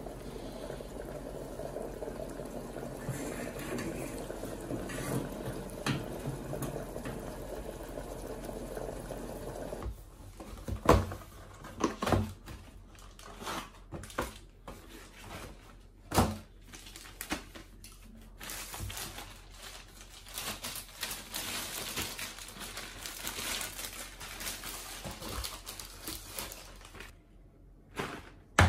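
Kitchen work: water running or pouring steadily for about ten seconds, then scattered knocks and clatter of utensils and cookware, with more water-like noise near the end.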